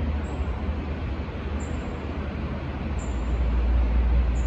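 Low steady rumble of a C751B electric train pulling away along an elevated track, heard from a distance, with a short high chirp repeating about every second and a half.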